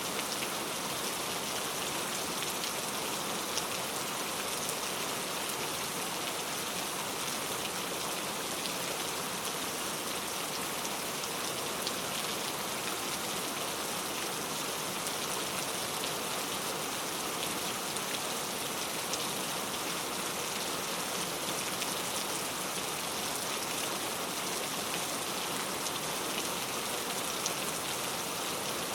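Heavy rain falling steadily on a leaf-covered road, a dense even hiss of many small drops tapping.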